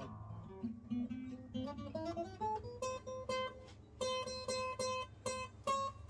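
Acoustic guitar played with single picked notes: a run climbing in pitch, then a higher note plucked again and again, about twice a second.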